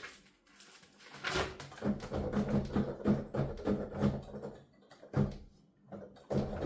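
Keys of a digital piano played with headphones, so only the mechanical tapping and thudding of the keyboard action is heard and no piano tone, in irregular clusters with two short pauses.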